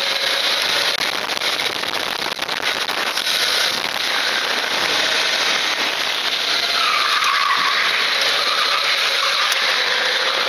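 Loud wind noise rushing over a Contour action camera's microphone, steady throughout, with a vehicle's sound underneath and a brief dipping tone past the middle.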